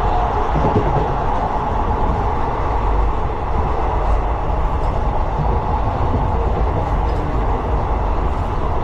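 Steady rumble and rushing wind of an express passenger train running at speed, heard from on board, with strong wind on the microphone.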